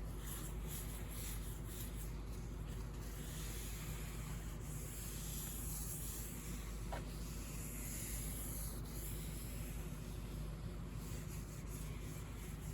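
A shellac-charged cloth pad rubbing continuously over the wooden piano case with a soft, even swishing hiss. The shellac has gone sticky, so the pad drags on the surface.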